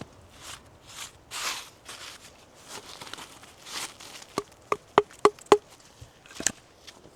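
Soft crunching and rustling, then a quick run of five sharp, ringing wooden knocks about four a second, and one more knock a second later, typical of hand tools striking wood during shelter building.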